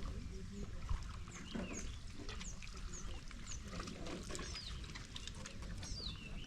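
Small birds chirping: a run of short, high, falling whistled notes, about two a second from about a second in, then one more near the end, over a low steady background rumble.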